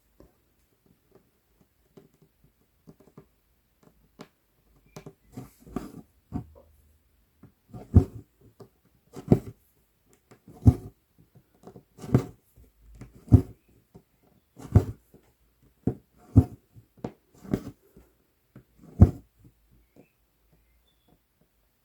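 Stranded embroidery floss being pulled through 11-count Aida cloth with a size 24 needle, stitch by stitch. It makes a short rasping pull about every second and a half, with fainter needle ticks in between.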